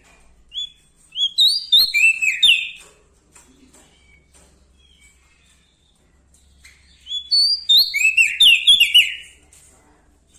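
Prenjak daun, a small Lombok songbird, singing two loud, quick phrases of short chirping notes that step up and down in pitch, about four seconds apart, with a few soft single notes between them.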